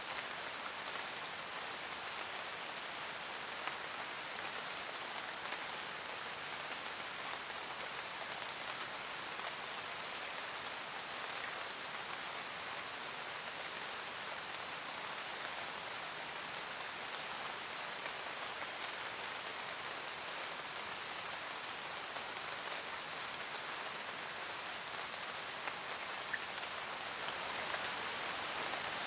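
Steady rain falling on forest leaves: an even hiss of rain with scattered individual drop ticks, swelling slightly near the end.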